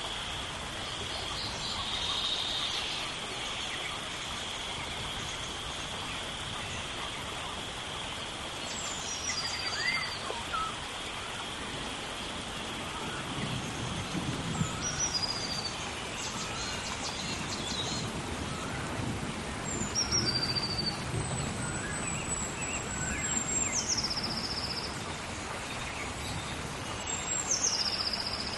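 Steady rainforest rain hiss with birds calling over it: a short high call that steps down in pitch, repeated several times, and near the end a longer high whistle that drops in pitch. A steady high-pitched tone fades out about halfway through, and low rumbling comes in the middle.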